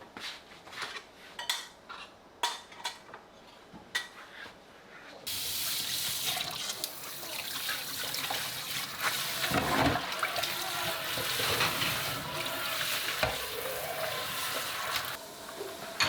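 A few light clinks and knocks of kitchenware are heard. About five seconds in, a kitchen tap is turned on and runs steadily into the sink for about ten seconds, with a couple of dull knocks under the running water, before it is shut off suddenly.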